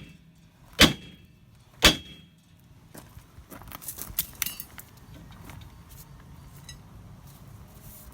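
Two hard blows struck on a Chevy pickup's rear brake drum, which is stuck on the brake shoes, about a second apart, followed by lighter metallic clinks and rattles.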